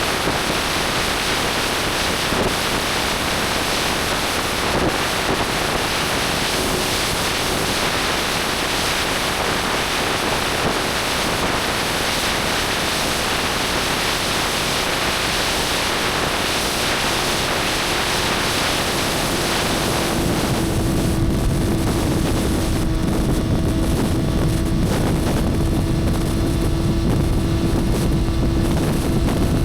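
Motorcycle riding at speed with heavy wind rush over the microphone. About twenty seconds in, a steady engine hum grows louder and comes through the wind.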